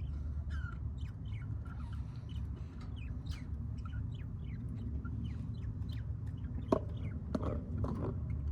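Birds chirping in many short, quick calls over a steady low rumble, with a single sharp click about two-thirds of the way through.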